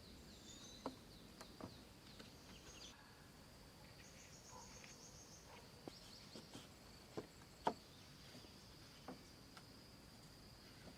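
Faint outdoor ambience: a steady high-pitched chirring of insects, with a few short bird chirps and a brief trill. Scattered faint sharp clicks or knocks, the loudest a little after seven seconds in.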